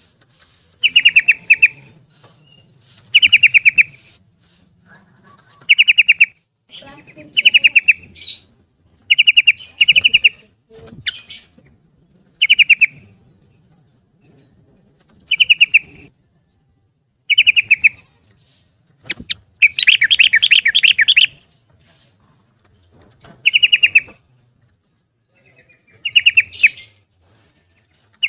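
Sooty-headed bulbul (trucukan) singing its rapid 'ropel' song: short, fast-trilled phrases repeated every couple of seconds, with one longer phrase about two-thirds of the way through.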